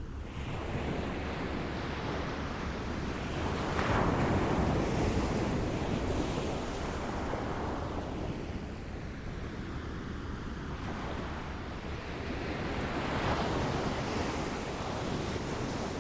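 Waves lapping on a shore, the water noise swelling twice, about four seconds in and again near the end, over a steady low rumble.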